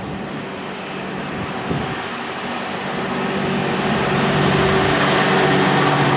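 A train approaching and growing louder over the first few seconds, with a steady engine hum and rising rumble of wheels.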